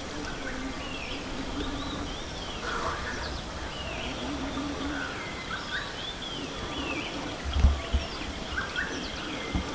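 Small birds chirping outdoors: many short, arched calls repeated throughout over a steady background hiss. A couple of low thumps come about three-quarters of the way through.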